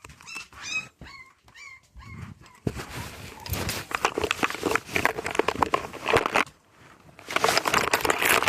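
A dog whimpering in about five short, high, bending cries, followed by several seconds of rustling handling noise.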